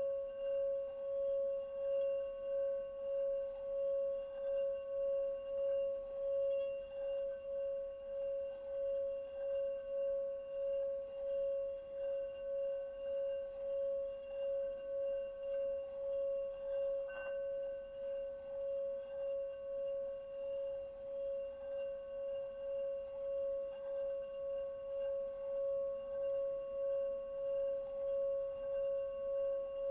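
Singing bowl held in a steady, sustained ring: one strong low tone with fainter higher overtones, wavering in loudness about one and a half times a second. A faint tick sounds about halfway through.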